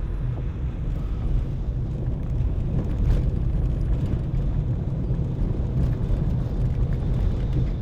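Car driving on a rough road with puddles and potholes, heard from inside the cabin: a steady low rumble of engine and tyres, with a short knock about three seconds in.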